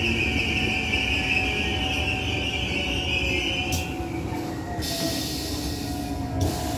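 DART electric commuter train running, heard from on board, with a steady high wheel squeal over the running noise and a lower steady whine. The squeal stops about four seconds in while the train keeps running.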